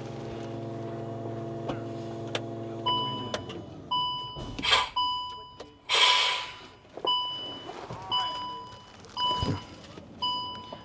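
Electric hydraulic pump of a garbage compactor truck running steadily as the rear hopper is repositioned, stopping about three seconds in. After that a warning beeper sounds about once a second, with a couple of short hisses in between.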